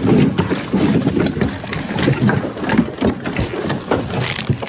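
Rummaging through a bin of mixed secondhand goods: hard objects knocking and clattering together in quick, irregular strokes.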